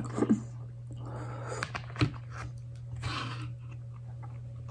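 Mouth sounds of eating instant noodles: chewing with a few short wet clicks, over a steady low hum.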